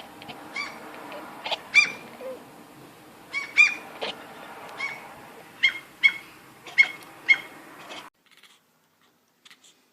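A cat making a string of short, pitched calls, about a dozen in quick succession, that cut off suddenly about eight seconds in.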